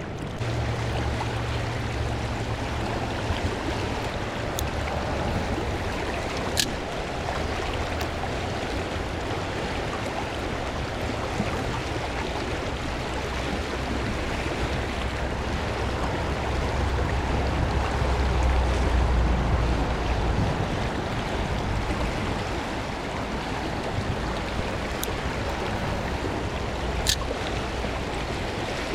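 Trout stream water rushing steadily, with a low rumble of wind on the microphone that swells about two-thirds of the way through, and a few sharp clicks.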